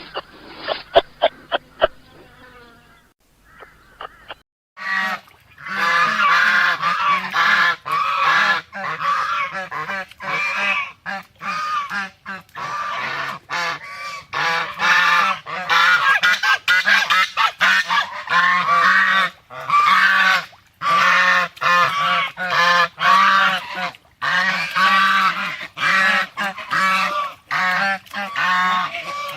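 A brief run of sharp calls at the start, a short pause, then a dense chorus of many animals calling over each other with short, repeated honking calls.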